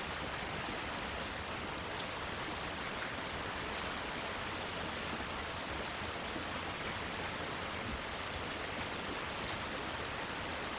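Steady rain falling on plants, an even hiss with faint scattered drop ticks.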